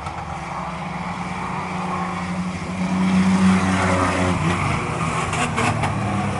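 Race trucks' engines running at speed on an oval track. The sound builds to its loudest about three seconds in as they pass, then eases off.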